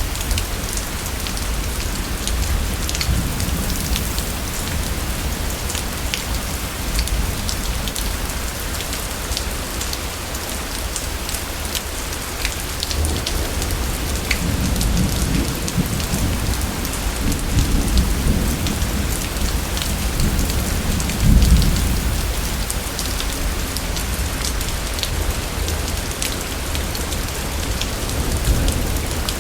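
Steady rain falling, with many small drips and patters, and thunder rumbling low, building through the middle and peaking about two-thirds of the way through before easing.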